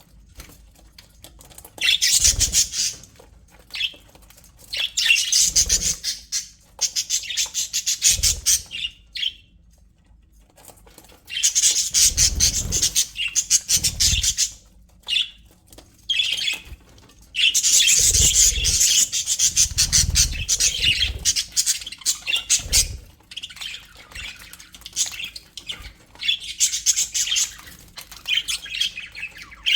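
A flock of budgerigars (parakeets) chattering and squawking in bouts of a few seconds, with short quieter gaps between them. A few soft, low thumps sound during the busiest stretches.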